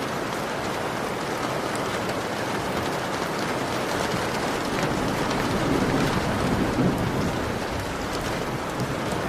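Heavy rain beating on a window: a dense, steady hiss with the fine tapping of single drops, swelling slightly in the middle.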